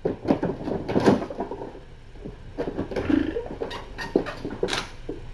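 Scattered light taps, knocks and rustles of kittens moving about and playing, with a brief low sound about three seconds in.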